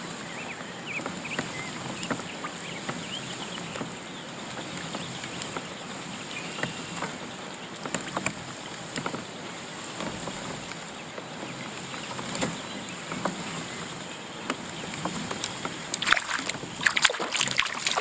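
Steady wash of a small fishing boat on the water, with scattered small clicks and knocks. In the last two seconds, a series of sharp splashes at the surface as a hooked kokanee is brought up beside the boat.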